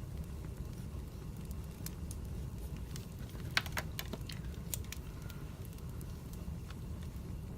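Wood fire burning: a steady low rumble with scattered crackles and pops, and a quick cluster of sharper pops about halfway through.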